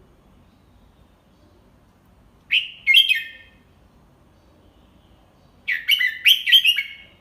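Red-whiskered bulbul singing two short phrases of several clear notes, about three seconds apart, delivered slowly and clearly as a tutor song.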